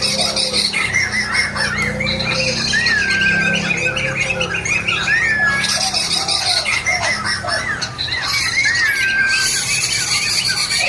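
A poksay mantel laughingthrush singing a long, unbroken run of loud whistled phrases: curving, gliding notes mixed with lower looping notes and rapid high chattering.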